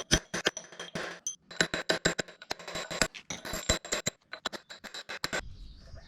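Fast, irregular metallic clicking and tapping with a faint ring, from tools working the gland nut loose on a hydraulic cylinder. It stops about five and a half seconds in.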